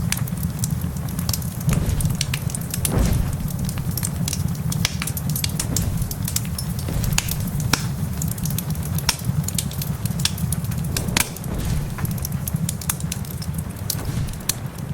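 Wood fire crackling in a fireplace, with sharp pops scattered irregularly throughout, over a steady low rumble and the patter of heavy rain.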